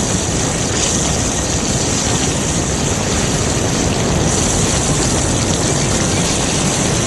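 Fire hoses spraying water: a loud, steady rushing noise with a low rumble underneath.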